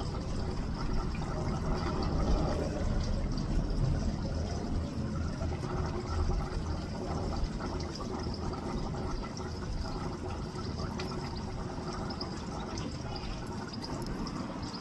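Steady running water, a continuous rushing with a low rumble underneath.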